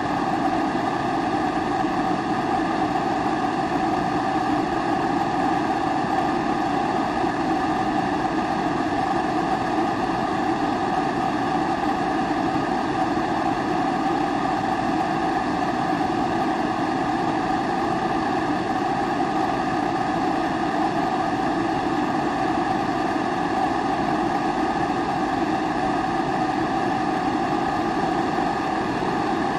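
Pressurised kerosene stove burner (Primus-type babour) running with a steady, unbroken rush that holds the same level and pitch throughout.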